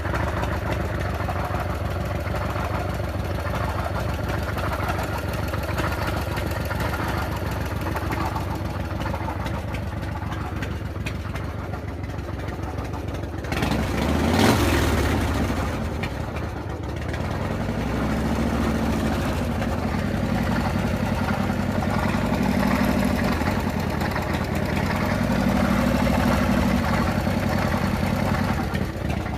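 Harley-Davidson Evolution air-cooled V-twin idling with a mechanical noise that the owner thinks comes from the rockers, though it is also strong down low by the rear cylinder. A brief loud burst comes about halfway through, and in the second half the engine is revved up and down three or four times.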